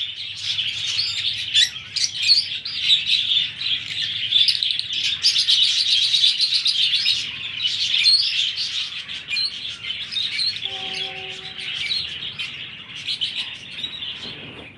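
Baby ringneck parakeet chicks chirping in a dense, continuous stream of rapid high calls, typical of begging at hand-feeding.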